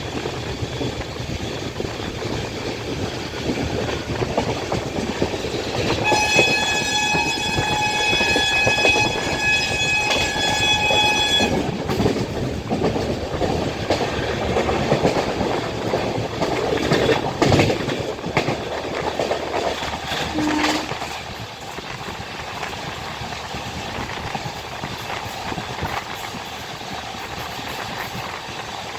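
Passenger train running on the rails, wheels clattering steadily, with the locomotive's horn sounding one long blast of about five seconds, about six seconds in. A run of sharp knocks from the wheels follows, and the running noise eases off near the end.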